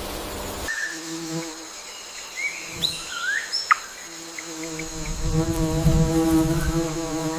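A flying insect buzzing close by, once briefly and then steadily from about halfway on. A few short bird chirps come in the first half, over a steady high insect trill. Before that, a rushing noise like flowing water cuts off in the first second.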